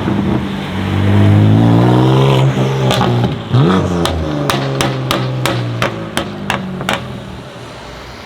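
BMW M2 Competition's twin-turbo straight-six with an Akrapovič exhaust accelerating hard, its pitch rising for about two seconds. It then comes off the throttle, and as the engine note falls and fades, a string of sharp cracks from the exhaust comes about every half second.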